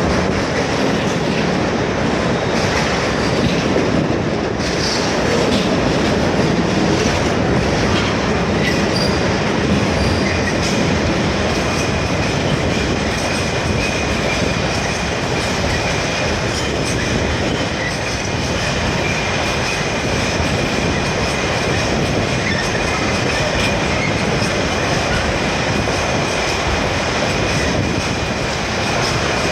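A ballast train's wagons rolling steadily past, their wheels clattering over the rail joints. A thin, steady high wheel squeal joins in about nine seconds in and runs on.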